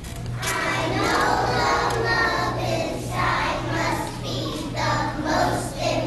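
Children's voices singing, over a steady low beat pulsing about twice a second.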